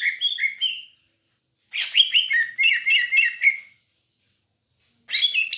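Green leafbird (cucak ijo) singing fast runs of chattering, whistled notes in three bursts, with short pauses between them.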